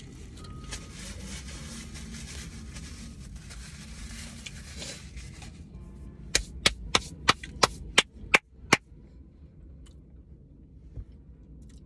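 Close-up crunching and rustling as crispy fried chicken is chewed with a paper napkin at the mouth, then a quick run of about eight sharp snaps, roughly three a second, that stops abruptly.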